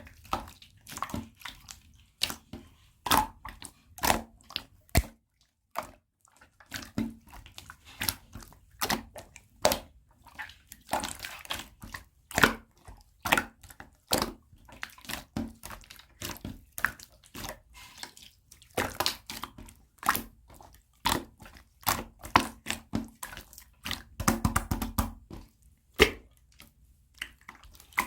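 Hands squishing and poking clear slime, making irregular wet clicks and pops about one or two a second, with a denser run of squelching near the end.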